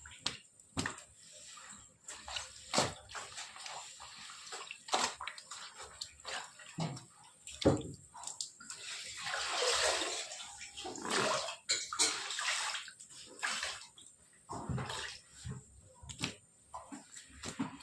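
Water splashing and pouring in irregular bursts, mixed with knocks and clatter, with a longer rush of water about halfway through.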